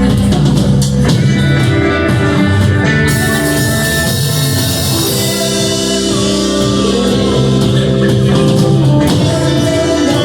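A band playing a rock song with guitar and drums. A cymbal crash comes about three seconds in and rings out over the next few seconds.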